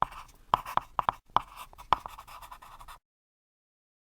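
Handwriting: quick scratchy strokes of a writing tool on a surface, ending about three seconds in.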